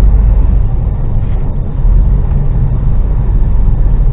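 HGV lorry's diesel engine running, heard from inside the cab as a steady low drone.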